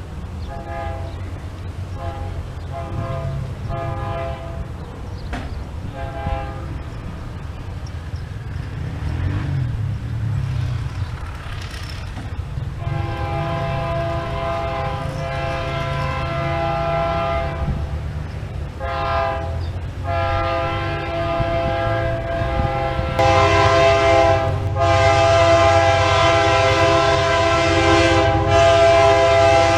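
Diesel locomotive's air horn sounding, first in a series of short blasts and then in long, sustained blasts through the second half. Underneath is the locomotive's low engine rumble, and the whole sound grows steadily louder.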